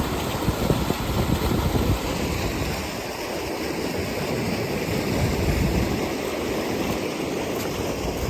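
Steady rush of fast-running floodwater and heavy rain, with wind buffeting the microphone in low gusts for the first two seconds before the sound settles into an even hiss.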